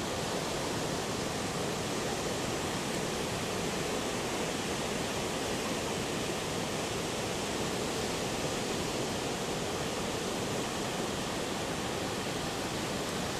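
Steady, unbroken rushing noise of large typhoon swell breaking along the beach.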